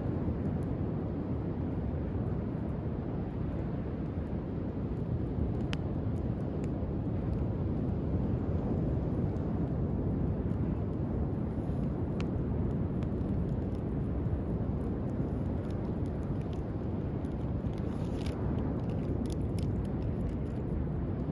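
Driftwood campfire crackling with scattered sharp pops, a small flurry of them near the end, over a steady low rumble of surf.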